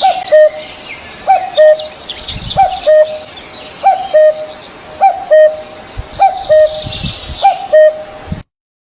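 Birds calling: a two-note call, a short rising note then a flat lower one, repeats about every 1.2 seconds over busy higher chirping. The sound cuts off abruptly near the end.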